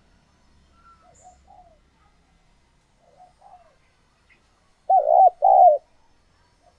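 Spotted dove cooing: faint coos in the first few seconds, then two loud, close coo notes about five seconds in. This is the call used as a decoy to draw wild doves into answering.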